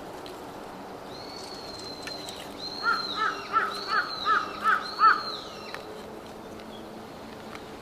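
Wild birds calling: a quick series of about seven short pitched calls in the middle, with higher, longer whistled notes over them.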